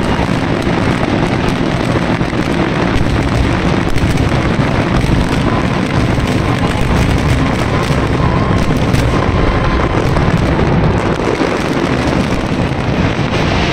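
A dense barrage of aerial fireworks: bursts and crackling follow so closely that they blend into one continuous, loud roar, with countless sharp cracks on top.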